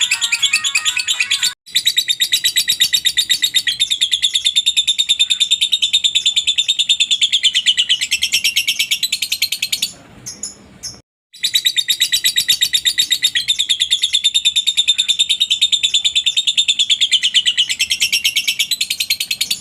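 Lovebird giving its long, rapid chattering trill (ngekek): a fast, even run of high-pitched notes held for about eight seconds, a short break, then another run of about eight seconds.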